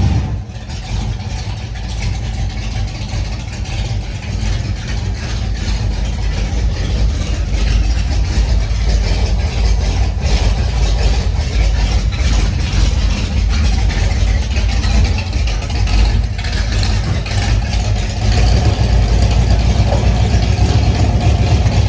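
A vehicle's engine running with a deep, steady rumble, a little louder from about eighteen seconds in.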